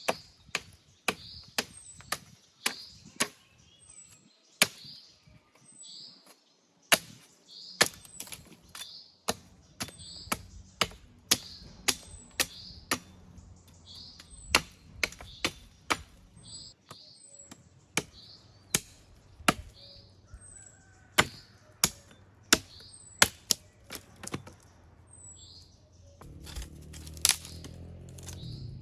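Repeated sharp knocks at an irregular pace of about one or two a second, typical of chopping at camp, while a small bird chirps short high notes throughout. A low steady rumble comes in near the end.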